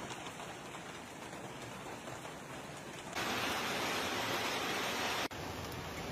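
Steady hiss of heavy rain. About three seconds in it suddenly becomes louder and brighter, and just after five seconds it drops back just as suddenly, as at edits between clips.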